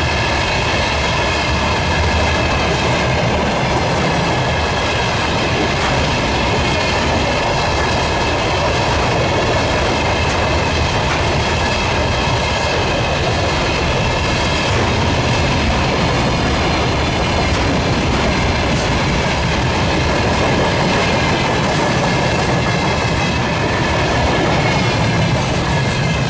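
Railway wagons rolling steadily past, a continuous rumble with the clatter of wheels over the rail joints and a faint high ringing from the wheels.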